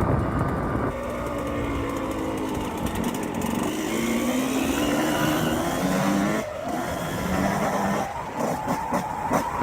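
Dirt bike engine revving up and down as it is ridden, the pitch climbing through each gear and dropping at a shift or throttle-off about six and a half and eight seconds in, with rushing wind mixed in.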